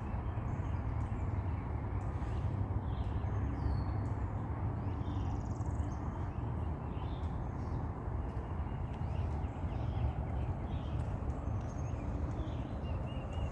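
Faint, scattered bird calls and chirps, a few short rising notes among them, over a steady low rumble.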